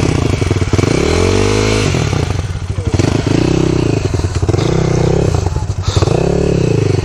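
Dirt bike's single-cylinder engine idling, with the throttle blipped several times so that the revs rise and fall again and again.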